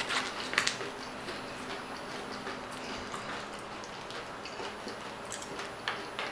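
Mouth sounds of a person eating loaded nachos: chewing with wet lip smacks, a few sharper clicks in the first second and again near the end.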